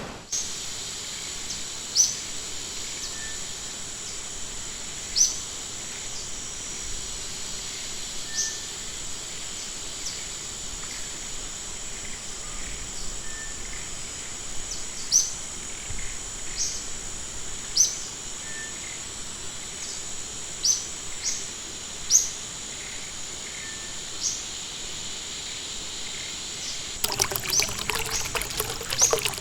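Forest ambience: a bird gives short, sharp chirps every second or few over a steady high-pitched background drone. Near the end a stream's trickling and splashing comes in.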